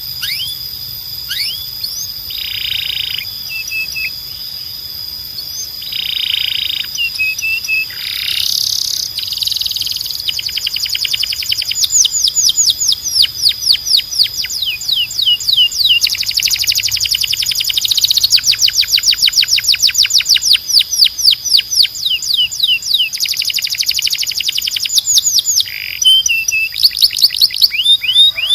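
Canary singing a long song of rapid trills: runs of fast, repeated falling notes that grow denser and louder from about twelve seconds in, broken by short harsh buzzy notes. A steady high whistle-like tone is held underneath throughout.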